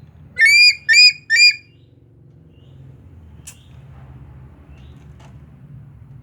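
An eagle calling three times in quick succession: short, loud, high-pitched squeals, each bending down in pitch at its end. Two faint sharp clicks follow later.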